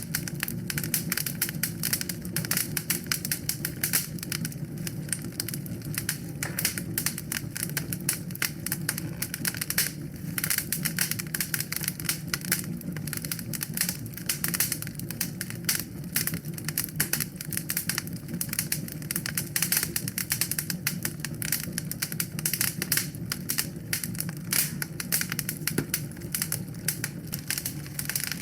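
Wood fire burning in a fireplace: a dense, irregular stream of sharp crackles and pops over a steady low rumble of the flames.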